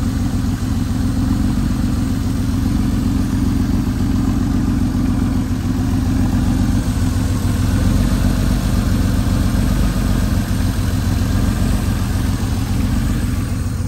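Porsche 964 Carrera 2's air-cooled 3.6-litre flat-six idling steadily through its exhaust.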